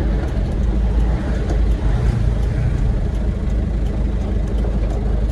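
An old truck's engine and body heard from the cab while driving: a loud, steady low rumble with rattling.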